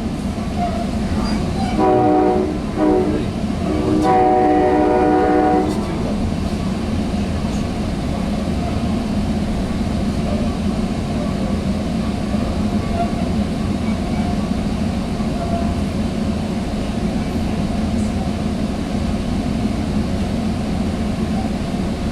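Sounder commuter train horn blowing three blasts, a medium, a short, then a longer one, finishing a long-long-short-long sequence like a grade-crossing warning. After that comes the steady rolling rumble and hum of the bilevel coach running on the rails, heard from inside the coach.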